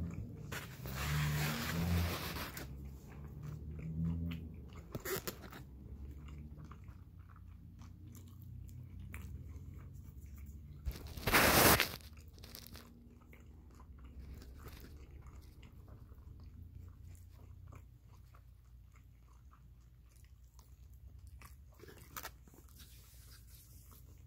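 A person chewing and crunching food close to the microphone, with many small wet clicks of chewing. A loud, brief burst of noise comes about eleven seconds in.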